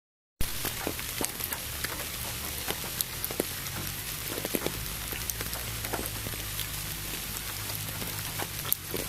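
Steady rain with many individual drops heard as sharp ticks over a dense hiss and a low steady rumble. It starts abruptly after a brief silence at the very beginning.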